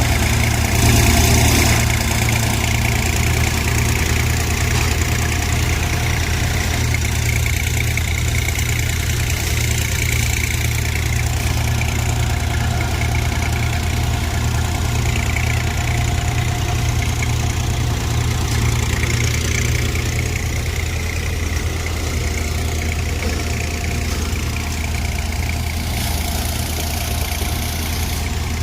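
New Holland 4710 tractor's diesel engine running steadily while powering a Vardhman multicrop thresher, the engine's low hum mixed with the thresher's steady mechanical whir. Slightly louder about a second in.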